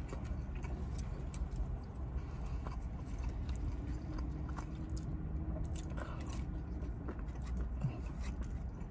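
A person chewing and biting barbecued pork up close to the microphone: a run of wet, smacking mouth clicks over a steady low rumble.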